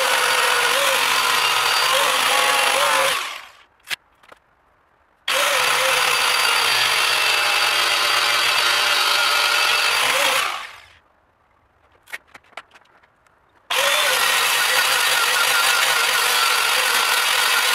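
Handheld electric power tool running loud with a wavering hum. It is switched off and winds down twice, with a few light knocks in each pause, and starts up again abruptly each time.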